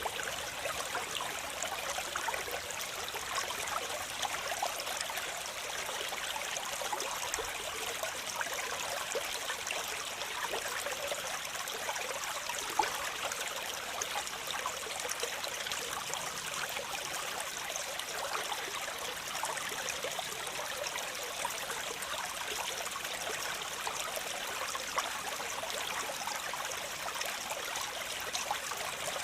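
Waterfall water falling and splashing in a steady, even rush, bright and hissy with little deep rumble, with one brief sharper splash about 13 seconds in.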